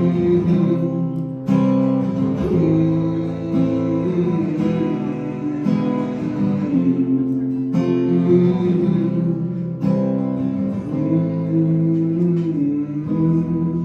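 Country music with strummed acoustic guitar chords and no singing, an instrumental stretch between verses.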